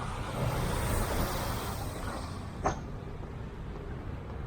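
Street traffic: a vehicle passes close by, its rushing sound swelling over the first two seconds and then fading, over a steady low traffic rumble. A single short, sharp sound stands out just past the middle.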